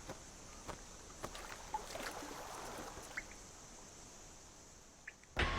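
Quiet river water with small, scattered splashes and drips as a fallen swift stirs on the surface, with a few faint high chirps. Music comes in loudly near the end.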